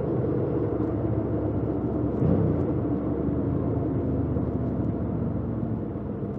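2018 Yamaha MT-07's 689 cc parallel-twin engine running steadily under way on the stock exhaust, with a brief louder moment about two seconds in.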